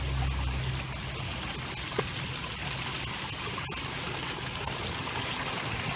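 Water rushing steadily, as of a flowing stream, with a faint click about two seconds in and a brief dropout near four seconds.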